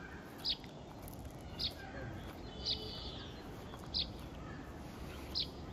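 A bird calling repeatedly: short, high chirps about once every second or so, five in all, over a faint steady outdoor background.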